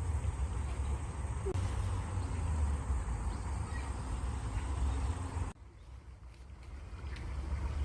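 Running water with a strong low rumble, and a faint bird chirp or two. The sound drops off suddenly about two-thirds of the way through, then builds back up.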